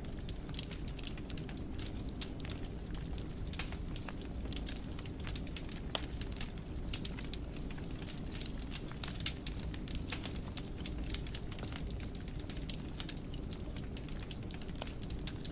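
Wood fire burning in a fireplace, with a steady low rumble of flames and many irregular sharp crackles and pops.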